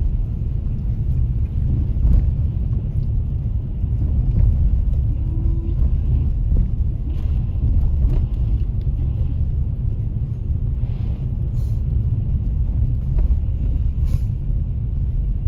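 Steady low rumble of a car driving on a snow-covered road, heard from inside the cabin, with a few faint clicks.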